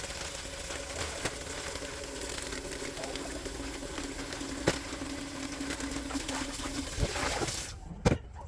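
Steady background hiss with a low, even hum and a few light clicks. Near the end the hiss drops away and a couple of soft thumps follow.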